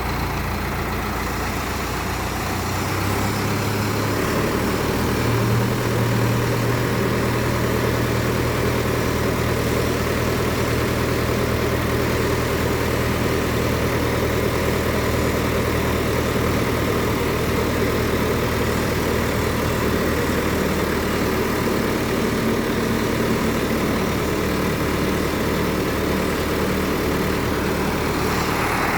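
Tractor's diesel engine running steadily, powering a hydraulic piling rig; about five seconds in the engine speeds up a little and then holds an even, higher speed.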